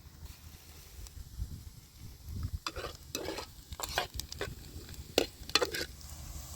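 Food being stirred in a cooking pan: a utensil scrapes the pan in a run of quick strokes in the second half, over a low rumble.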